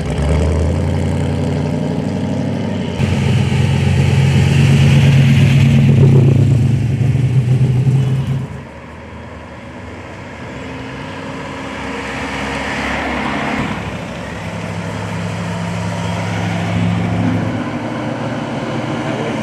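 Car engines running and revving as vehicles drive by one after another. The loudest, deepest engine runs from about three seconds in and cuts off abruptly about eight and a half seconds in, and more engines swell and fade after it.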